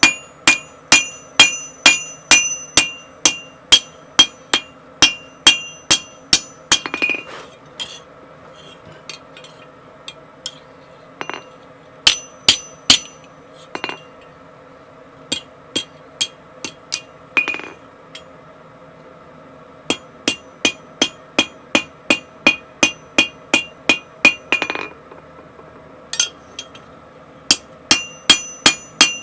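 Blacksmith's hammer striking steel on an anvil while forging 1060 tool steel, each blow ringing. The blows come in steady runs of about two a second, broken twice by stretches of only a few lighter, scattered taps, with a low steady hum underneath.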